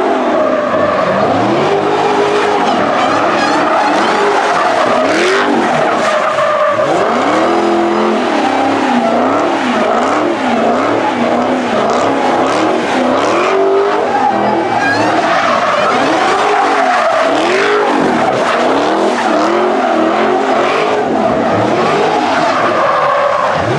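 A car spinning its tyres in a sustained skid: continuous loud tyre squeal, with the engine revving up and down about once a second.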